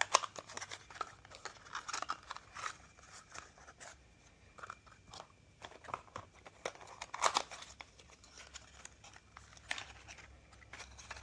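Rustling, crinkling and tearing of packaging as new rod bearing shells are unwrapped, with scattered small clicks and two sharper clacks, one right at the start and one about seven seconds in.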